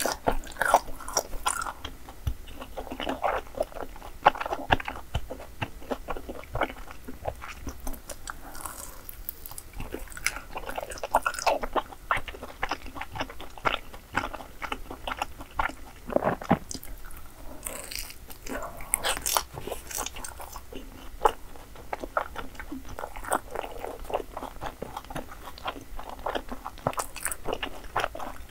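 Close-miked eating: irregular bites and chewing of crisp food, with many sharp crunches and smacking clicks.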